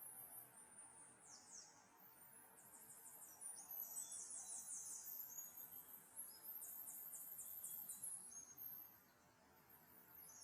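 Faint, high-pitched trilling of insects such as crickets or cicadas in woodland: short runs of rapid, evenly spaced chirps, one after another. The trills are busiest through the middle and thin out near the end.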